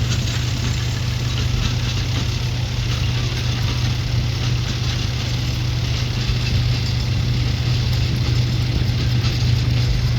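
A steady low drone of an engine running, with an even background rumble.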